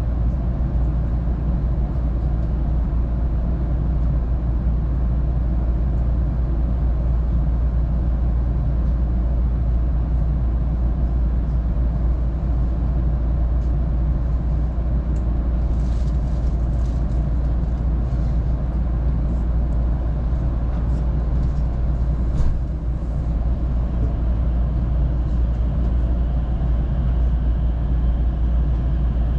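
Inside an electric commuter train standing at a station: a steady low rumble with a scatter of clicks about two thirds of the way in. Near the end a faint rising electric-motor whine comes in as the train starts to pull away.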